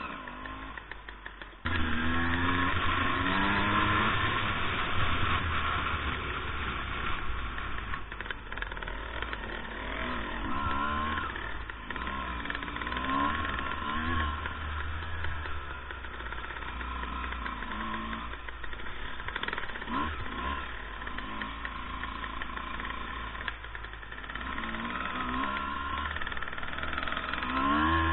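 Two-stroke dirt bike engine running under load on a rough trail, its revs rising and falling over and over. It is quieter for the first couple of seconds, then louder.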